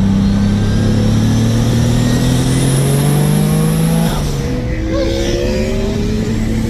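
Single-turbo Dodge Stealth 3.0 V6 accelerating, heard from inside the car. The engine note climbs steadily with a thin rising turbo whistle above it, drops at a gear change about four seconds in, then climbs again.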